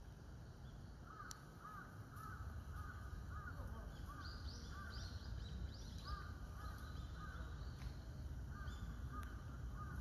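Birds calling: a run of short, repeated calls, about two or three a second, with a few thinner, higher calls in the middle.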